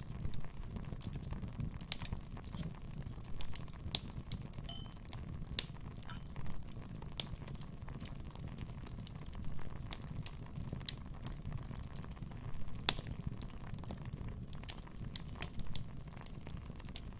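Wood fire burning in a fireplace: a steady low rumble of flames with irregular sharp crackles and pops from the burning logs, one louder pop near the end.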